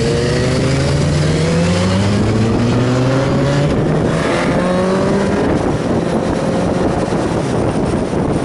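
Motorcycle engine accelerating hard, its pitch rising, with an upshift about three and a half seconds in before it climbs again. After about five seconds the engine sinks under loud wind noise on the microphone.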